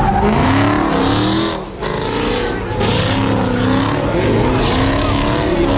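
Car engines revving hard, their pitch climbing and dropping again and again, with a brief lull about a second and a half in.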